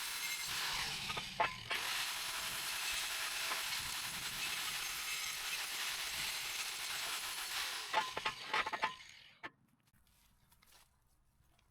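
Angle grinder with a grinding disc working rusty steel: a steady hissing grind with a few sharp metal clinks, stopping about nine seconds in, after which only faint clicks are left.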